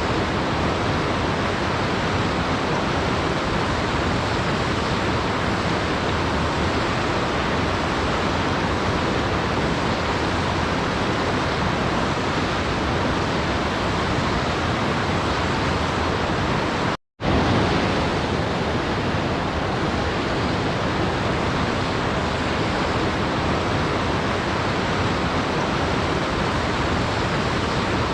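Waterfall water rushing in a steady, even roar. It cuts out for a split second about seventeen seconds in, then resumes unchanged.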